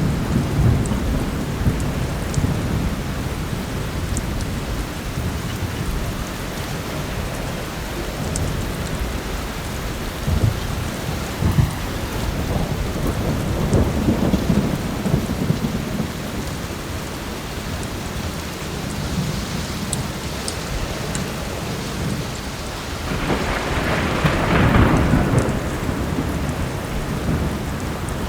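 Heavy rain falling steadily with repeated low rumbles of thunder, one louder roll of thunder near the end. Faint crackles from a wood fire tick here and there above the rain.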